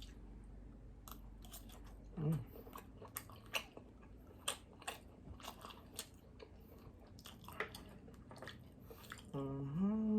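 Close-miked chewing and biting of a hotdog: many short wet mouth clicks and smacks. There is a brief hum about two seconds in and a longer hummed "mm" near the end.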